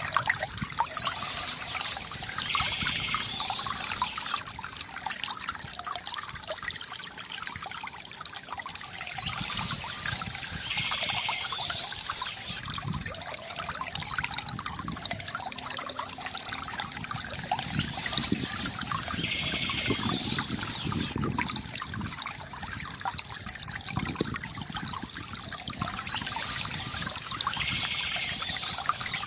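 Shallow stream water trickling and gurgling steadily, with birdsong: a high chirping phrase that comes back about every eight to nine seconds, four times.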